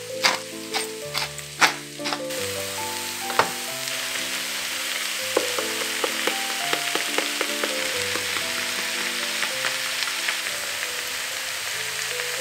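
Shredded cabbage and carrot sizzling in a frying pan: a steady hiss with small crackles. A quick run of sharp clicks comes in the first two seconds, and soft background music plays underneath.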